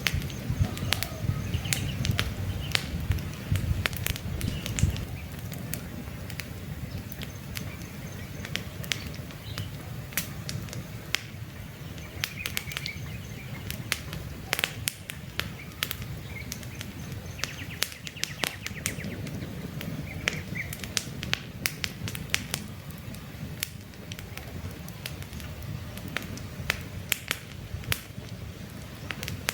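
Wood campfire crackling, with many sharp irregular pops and snaps, while a few birds chirp now and then in the background.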